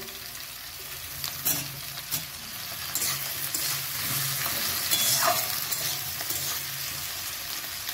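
Spring onion stalks, onion and fresh tomato sizzling in hot mustard oil in a steel wok, stirred with a metal spatula that scrapes and clinks against the pan a few times.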